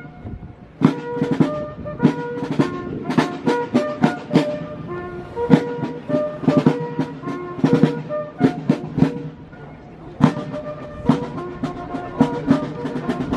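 Military band playing a march: brass carrying a melody over sharp, frequent drum strikes.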